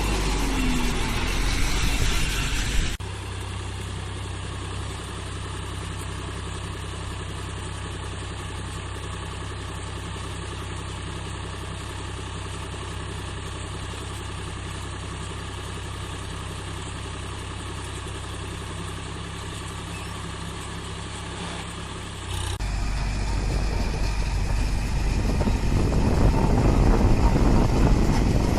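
Engine powering a crop baler, running at a steady speed. The sound shifts suddenly about three seconds in, and near the end it grows louder and noisier.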